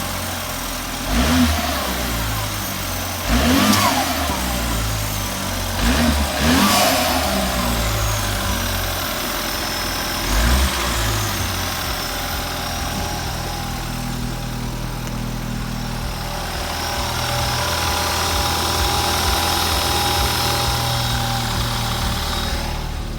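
BMW N20 2.0-litre turbocharged four-cylinder engine on a test run, blipped to a quick rev about five times in the first ten seconds or so, then settling to a steady idle.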